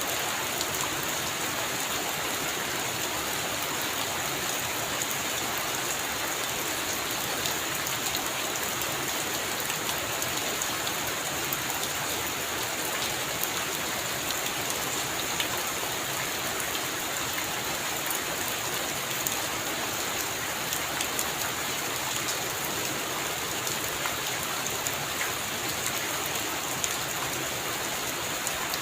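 Heavy rain falling steadily on a roof: a dense, even hiss sprinkled with fine drop ticks.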